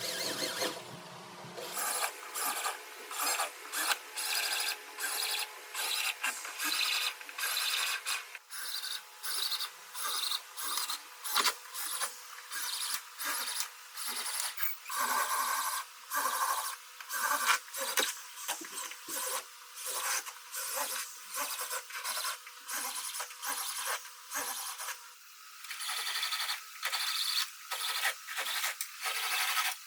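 Rhythmic rubbing and rasping strokes of a hand abrasive tool on a car body panel, about two strokes a second, working on without a break.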